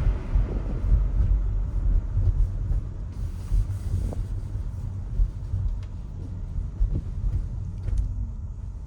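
Low, steady rumble of tyre and road noise from a Tesla electric car driving on wet streets, with no engine sound, slowly easing off toward the end.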